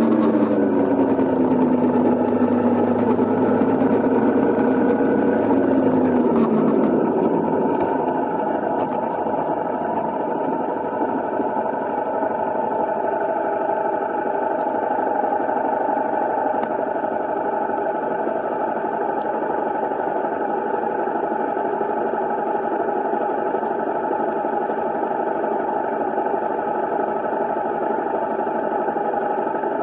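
Honda CRF250L's single-cylinder four-stroke engine running, its pitch wavering and sliding down over the first six seconds or so, then holding steady.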